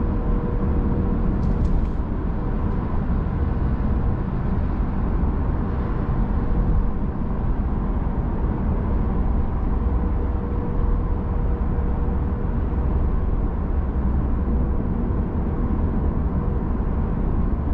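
Steady low rumble of road and tyre noise inside the cabin of a 2021 Genesis G80 3.5 turbo cruising on an expressway.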